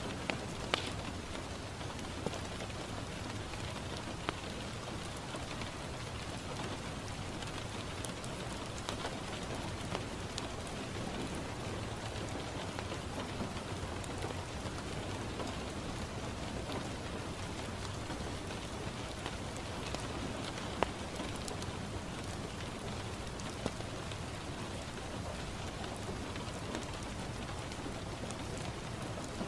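Steady rain falling on a window, an even patter, with a few sharp isolated pops of a crackling wood fire scattered through it.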